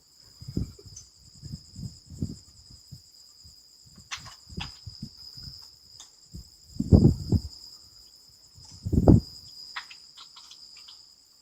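Crickets chirping steadily, with a series of low thumps that are loudest about seven and nine seconds in, and scattered light clicks.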